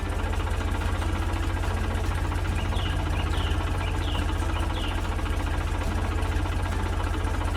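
A large farm machine's engine running steadily with a fast, even low throb. A few short bird chirps come over it near the middle.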